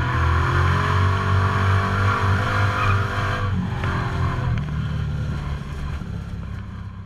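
LS2 V8 engine of a drift truck running hard, its pitch wavering up and down under a steady hiss, growing quieter over the last couple of seconds.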